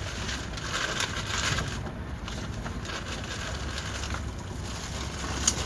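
Steady running noise of an express passenger train at speed, about 115 km/h, heard from inside the coach: a low rumble of wheels on rail under an even rush of noise, with one sharp click near the end.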